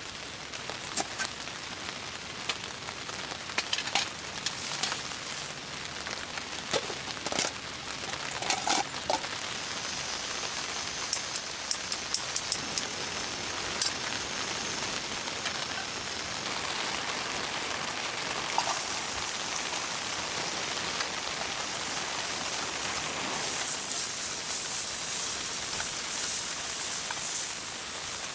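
Steady rain, with scattered sharp ticks and taps through the first half; the hiss turns brighter and heavier about two-thirds of the way in.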